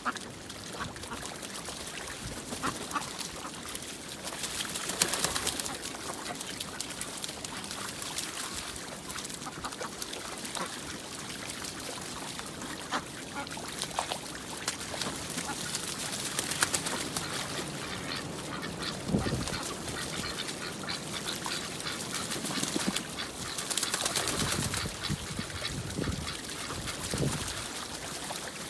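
Ducks quacking on a pond: scattered calls, a few louder ones about two-thirds of the way in and near the end, over a steady hiss.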